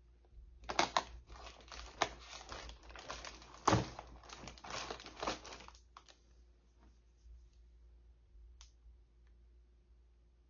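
Plastic packaging crinkling as it is handled and opened, for about five seconds starting under a second in, with a few sharper crackles, then it stops; one short click later on.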